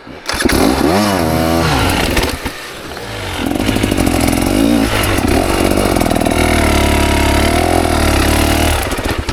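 KTM 300 XC's single-cylinder two-stroke dirt bike engine kicks in suddenly, revving sharply up and down for about two seconds, then holds high revs for several seconds before cutting off near the end.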